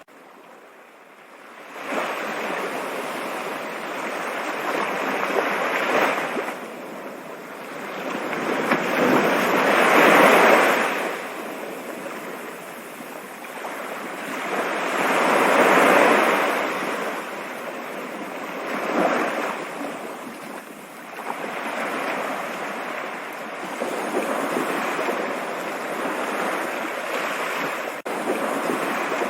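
Rushing water of a stream, a continuous even rush that is faint for the first two seconds, then comes in suddenly and swells louder and eases off a few times.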